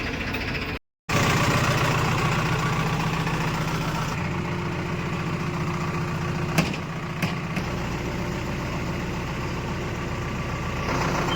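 Diesel engine of heavy farm or earthmoving machinery running steadily, with two sharp knocks around the middle. The sound cuts out completely for a moment about a second in.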